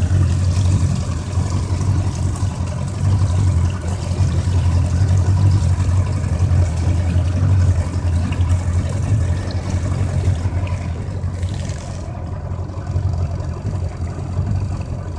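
Yamaha 115 horsepower two-stroke outboard motor running steadily with a low drone, easing off a little about twelve seconds in.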